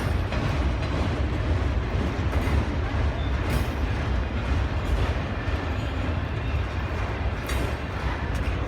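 Freight train passing close by: the steady heavy rumble of rolling cars and wheels on the rails, with a few brief sharper rattles.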